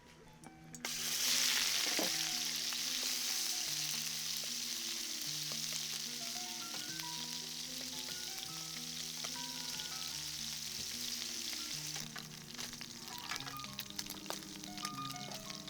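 Food dropped into hot oil about a second in, setting off a loud sizzle that settles into a steady frying hiss, then turns crackly with spitting pops in the last few seconds. Soft background music plays underneath.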